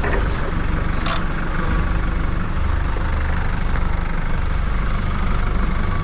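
Farm vehicle engine running steadily at idle, with one brief sharp click or knock about a second in.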